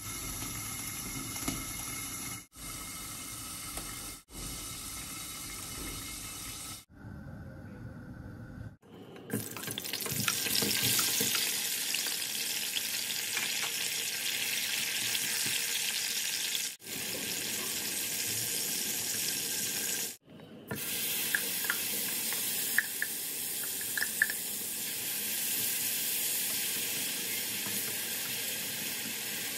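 Chillies, onions and tomatoes sizzling in hot oil in a stainless steel frying pan, stirred with a wooden spoon, frying down into a chilli sambal. The sizzling starts about nine seconds in after a few quieter clips and runs on steadily, with a few short clicks a little after the middle.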